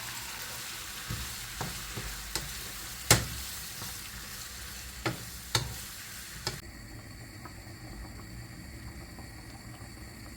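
Food sizzling in a frying pan, with several sharp knocks of a utensil against the pan, the loudest about three seconds in. About two thirds of the way through, the sizzle gives way to a fainter steady hiss.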